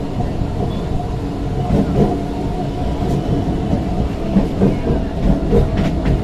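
A train running on the rails: a steady low rumble with a few faint clicks of the wheels over the track.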